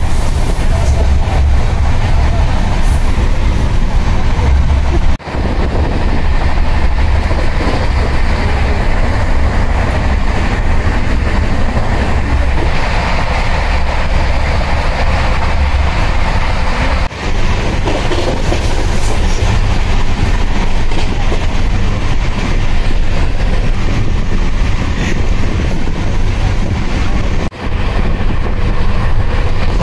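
Indian Railways passenger train, the Pooja Superfast Express, running along the track: a steady, heavy rumble of wheels on rails heard from aboard, cut off for an instant three times.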